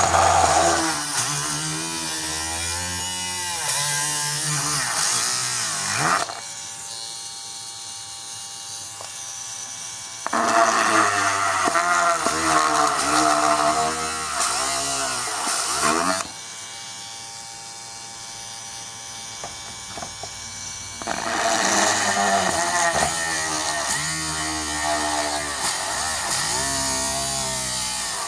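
Homemade mini drill's 775 DC motor running. It runs in three loud spells whose pitch sags and recovers again and again as the bit is loaded into the work, with two quieter spells of steady, even running between them.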